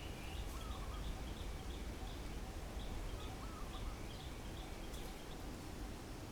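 Faint high-pitched animal chirps, repeated in quick short notes, over steady background rumble and hiss, with two brief warbling calls, one near the start and one about halfway through.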